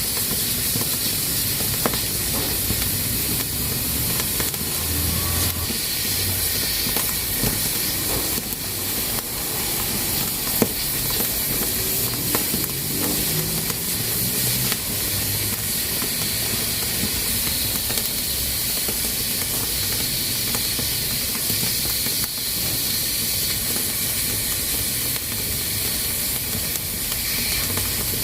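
Pressure cooker hissing steadily as steam escapes from its valve, with a few sharp clicks along the way.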